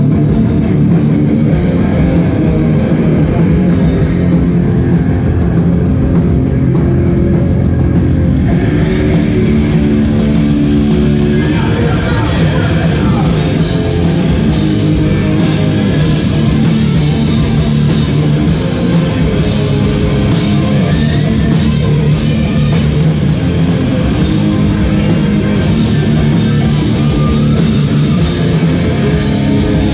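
Hardcore band playing live, loud and distorted, with heavy guitars and bass. After about ten seconds the full band comes in harder, with crashing cymbals.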